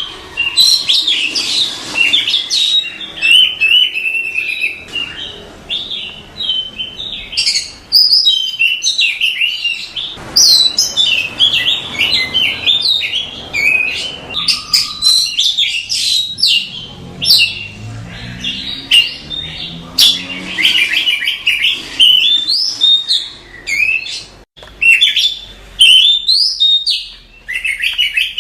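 Oriental magpie-robin singing a fast, varied song of chirps, whistles and trills, in rapid phrases with brief pauses.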